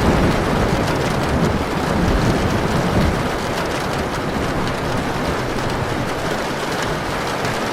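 Heavy rain pouring steadily, with a deep low rumble that fades out about three seconds in.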